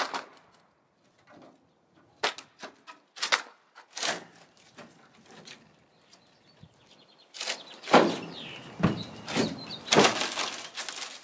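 Rotten wooden truck-bed boards being pried up and broken apart: a string of sharp cracks and knocks, then two longer stretches of rough splintering and scraping, about halfway through and near the end.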